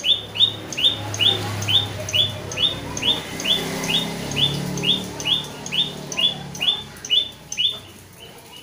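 A bird calling: a steady series of short, high chirps, a little over two a second, which stop about a second before the end.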